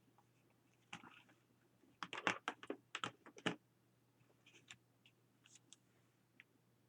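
Magazine paper clippings being handled: scattered light paper crinkles and clicks, with a quick run of sharper crackles from about two to three and a half seconds in.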